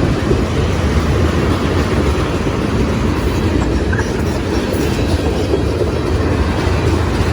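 A train rolling past, a steady loud rumble of its wheels and cars on the rails.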